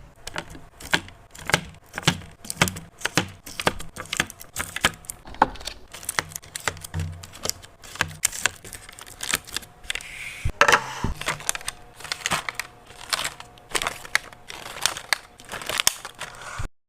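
Snack packaging and containers being handled during a fridge restock: a quick, irregular run of clicks and taps with plastic crinkling, cutting off suddenly near the end.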